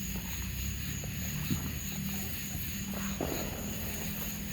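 Outdoor summer-night ambience: a steady low rumble under a continuous high-pitched insect drone, with two faint knocks about a second and a half and three seconds in.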